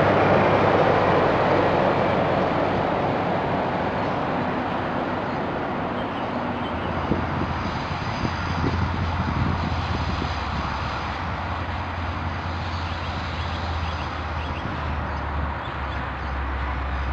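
A diesel multiple unit's rail and engine noise fading away as it runs off, then the low, steady engine note of a DL-class diesel-electric locomotive hauling a container freight train, heard from a distance and growing stronger from about halfway as it approaches.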